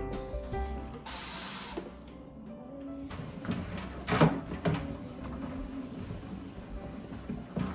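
A short burst of spraying hiss about a second in, followed by a few light knocks and clinks of things being handled.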